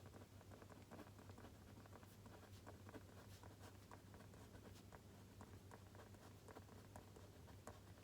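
Faint writing at a desk: a pen scratching and tapping on paper in many small irregular ticks, over a low steady hum.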